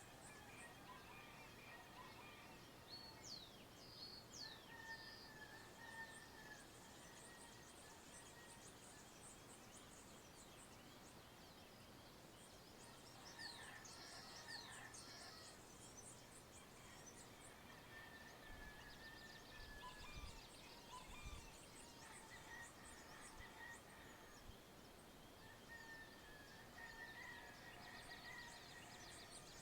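Faint dawn chorus of birds in open countryside: several birds calling over one another with quick downward-sweeping whistles and short warbled phrases, over a high, rapid ticking chirr. A few dull low thumps come about two-thirds of the way through.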